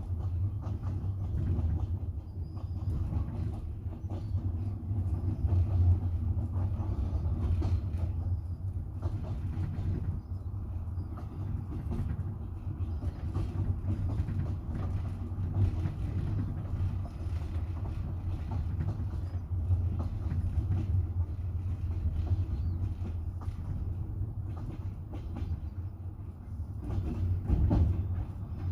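Wheels of a moving double-decker passenger train clattering over the rails, heard from inside the coach as a steady low rumble with frequent clicks, growing louder near the end.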